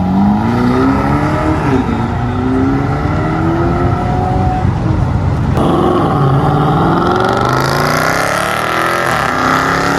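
Ferrari California's V8 accelerating hard, its pitch climbing and dropping back at each upshift. About halfway through the sound breaks off abruptly into another hard acceleration climbing through the gears.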